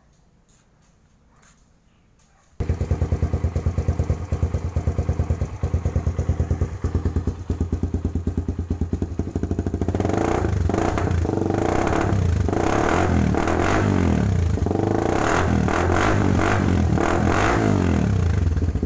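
Motorcycle engine exhausting through a cheap aftermarket muffler: it starts up suddenly a few seconds in and runs with a loud, rapid exhaust beat, then is revved again and again over the second half.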